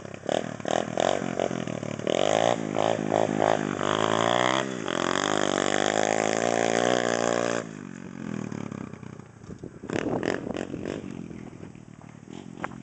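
110cc pit bike engine being revved: a string of quick throttle blips, then held at high revs for several seconds with a brief dip in pitch, before dropping back sharply to lower revs with a few more blips near the end.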